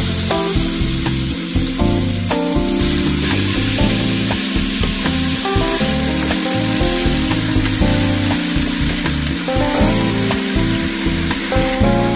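Food frying in hot oil in a pot, sizzling steadily, under background music with a bass line.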